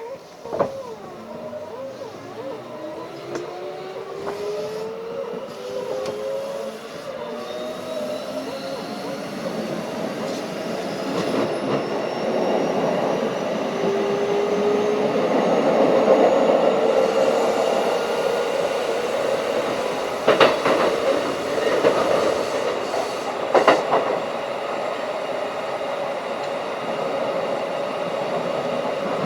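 Keikyu 1500 series field-chopper electric train accelerating: traction motor and gear whine rise steadily in pitch for about fifteen seconds as the running noise grows louder, then the train runs on at speed. Two sharp knocks from the track come a few seconds apart near the middle.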